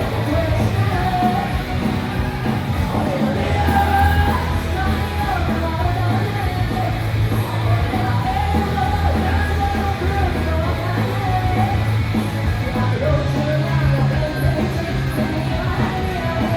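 Live rock band playing: shouted, punk-style lead vocals over distorted electric guitars, bass guitar, keyboard and a drum kit, steady and loud.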